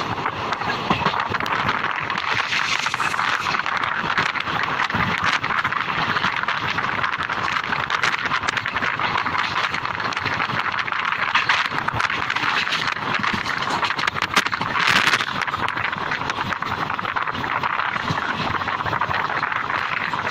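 Passenger train coach in motion, heard from its open doorway: a steady rushing noise of wheels on rails and passing air, with a brief louder swell about three-quarters of the way through.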